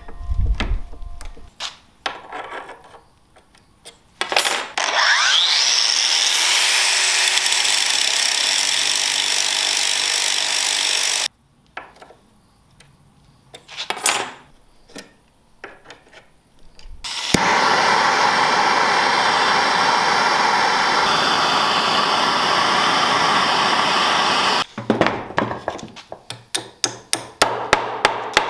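An electric power tool spins up with a rising whine, runs steadily for several seconds under load and stops abruptly, then does the same a second time. Near the end come rapid hammer strikes, about three a second.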